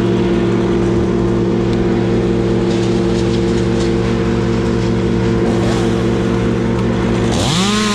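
An engine runs steadily at high speed. Near the end a chainsaw revs up sharply, its pitch climbing quickly.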